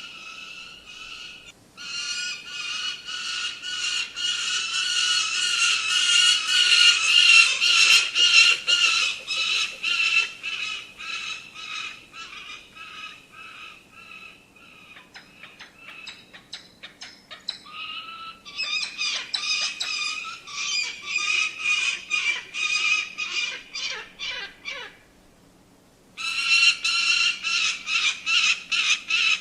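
Falcon calling: a fast series of sharp, repeated high notes, given in long bouts with short pauses between them.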